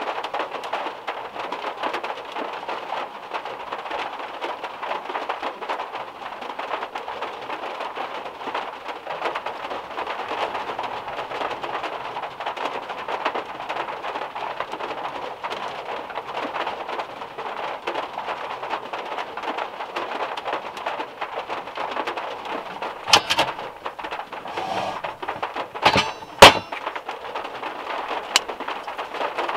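Heavy rain drumming steadily on the metal roof of a VW Beetle, heard from inside the car. Near the end come a few sharp clicks and knocks.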